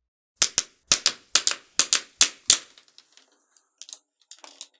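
A quick, uneven run of about ten sharp clicks, like keys being struck, over about two seconds, followed by fainter, sparser ticks.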